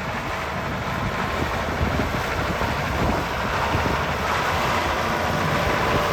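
Ford 8000 tractor's diesel engine running steadily, with wind buffeting the microphone; it grows slightly louder toward the end.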